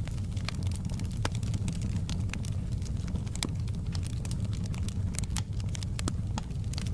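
Wood fire in a fireplace with logs burning: a steady low rumble of the flames and frequent sharp, irregular crackles and pops.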